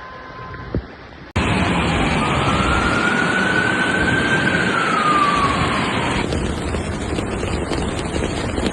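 A siren wails once, slowly rising and then falling in pitch, over a steady loud roar that starts abruptly about a second and a half in. The roar carries on after the siren stops, about six seconds in.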